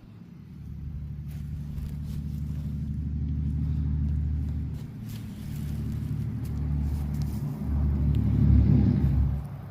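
A motor vehicle's engine running, growing louder with a dip midway, loudest about eight and a half seconds in, then dropping off sharply near the end.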